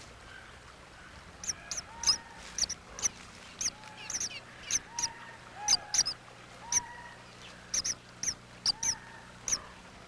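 Oregon junco chirping: a run of short, high chip notes, two or three a second, starting about a second and a half in, with softer, lower notes between them.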